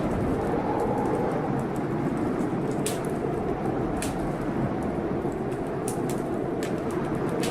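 Steady howl of blizzard wind, with scattered crackles and pops from a wood fire in a fireplace, the sharpest of them about three, four and six seconds in.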